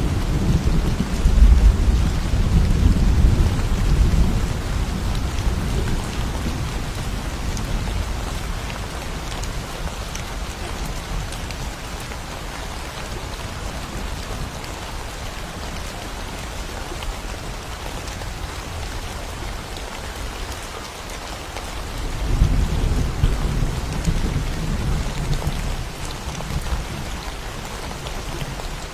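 Thunderstorm in forest: steady rain falling, with low thunder rumbling. One roll fades away over the first several seconds, and another rolls in about 22 seconds in and dies down a few seconds later.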